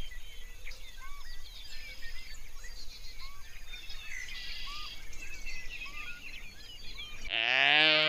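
Many small birds chirping and twittering, with one bird repeating a short arching note about once a second. Near the end, after a sudden change, a wildebeest gives a loud, low bellowing call whose pitch rises and falls over about a second.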